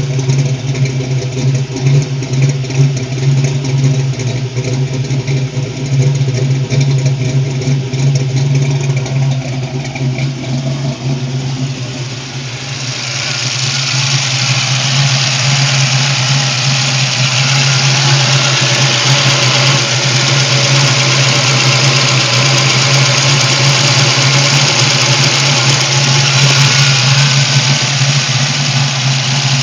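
Ford 347 stroker small-block V8 in a 1986 Mercury Capri 5.0 idling steadily, running without a mass air meter on an aftermarket PiMP ECU. The low exhaust note is heard at the tailpipes first; from about halfway through it is heard at the open engine bay, where a loud steady hiss joins it.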